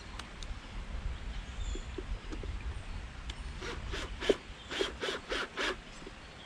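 A wooden bluebird-box door being tightened up by hand: about seven short scraping strokes of metal working into wood in a quick run, roughly three a second, through the second half.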